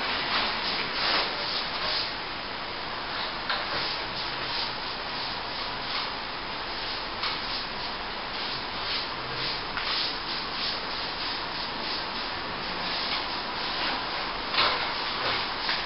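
Steel plastering trowel scraping over a wet plaster top coat on plasterboard, in repeated irregular strokes.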